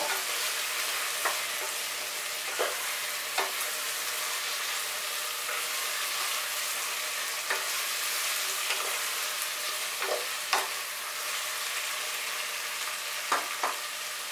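Sliced onions, chopped tomato and slit green chillies frying in mustard oil in a pressure-cooker pot, a steady sizzle, while a spatula stirs and knocks against the pot now and then.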